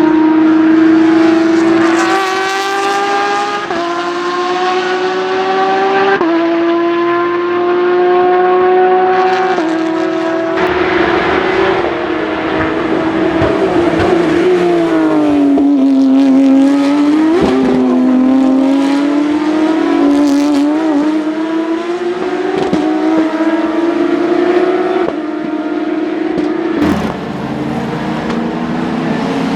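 Porsche 911 racing car's flat-six engine at full throttle, its pitch climbing through the gears and dropping back at each upshift. Around the middle the pitch falls and rises again as it slows for a corner and accelerates out. The sound jumps several times where separate passes are joined.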